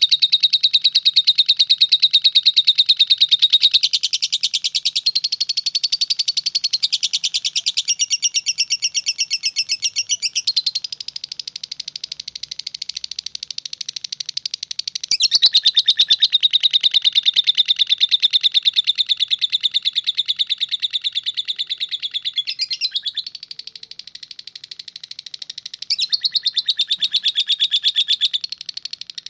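Lovebird chattering in the long, unbroken 'ngekek' style: a fast rattling trill with no pauses, changing its pattern every few seconds and softening twice along the way.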